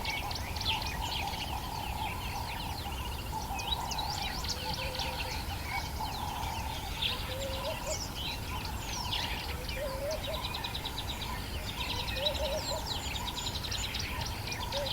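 Dawn chorus of many African bush birds: overlapping chirps, whistled sweeps and fast trills, with a lower warbling call repeated every few seconds, over a steady hum and a low rumble.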